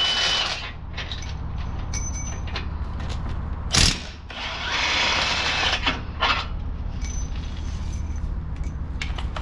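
Power tool spinning out the bumper reinforcement's 13 mm bolts in two short runs of about a second each, one at the start and one about five seconds in. There is a sharp knock just before four seconds, and a steady low hum underneath.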